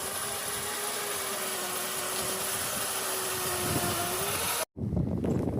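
Mini bike's small engine running at a steady speed, with a held whine and a hiss. It cuts off abruptly about four and a half seconds in, giving way to low rumbling and knocks.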